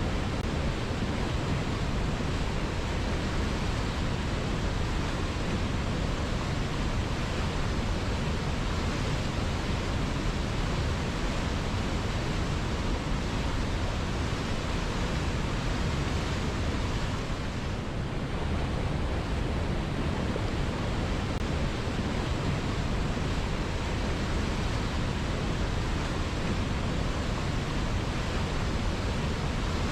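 River water flowing in a steady, even rush, dipping slightly for a moment about 18 seconds in.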